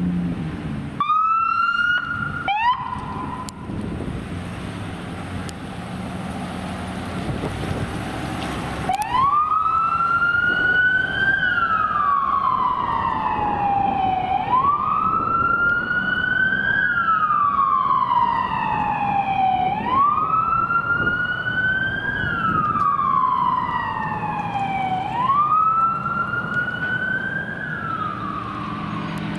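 An emergency vehicle's siren gives two short upward chirps, then about nine seconds in starts a slow wail that rises and falls about every five seconds. A vehicle engine runs underneath.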